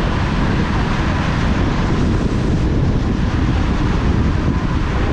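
Steady wind and road noise from a moving vehicle, a continuous low rumble with wind buffeting the microphone.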